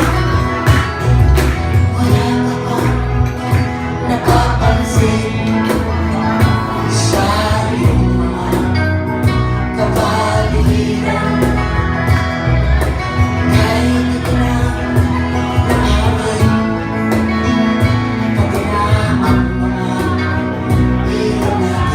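Live band playing a song, with singing over guitars, bass and a steady beat.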